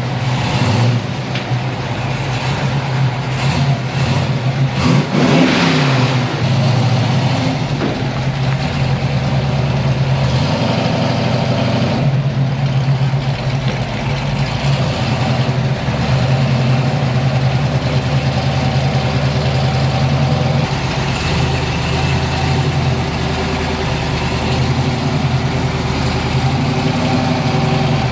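Car engine running at idle, with a brief rev that rises and falls about five seconds in.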